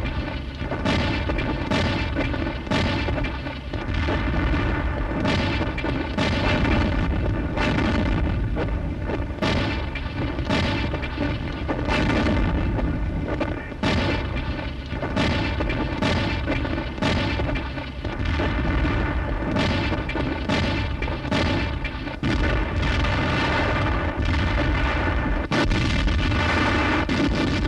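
Repeated booms of gunfire and explosions, roughly one a second, over a continuous heavy rumble: a battle-sound soundtrack of the kind laid over wartime newsreel footage of armour advancing.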